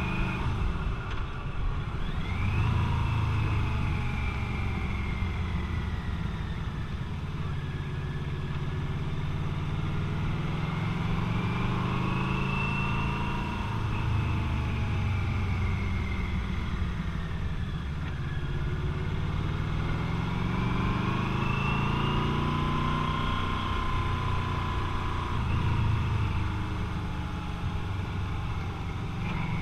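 Motorcycle engine running under way, its pitch climbing and falling again and again as the rider accelerates and backs off, with peaks about three, thirteen, twenty-one and twenty-six seconds in.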